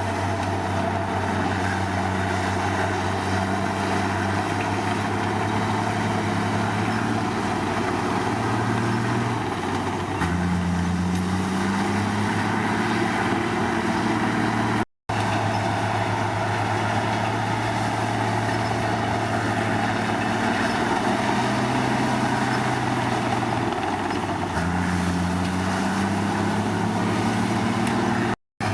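Komatsu D53 bulldozer's diesel engine running under changing load: its note dips and then climbs back twice, about ten seconds in and again near the end. The sound cuts out for a split second twice.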